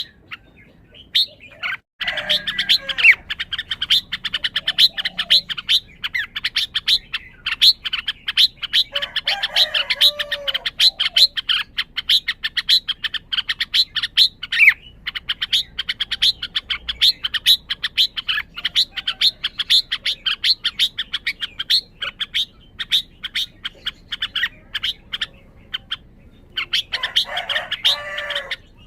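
Red-whiskered bulbul calling in a fast run of sharp chirps, about four a second, with a few short, lower warbled phrases mixed in.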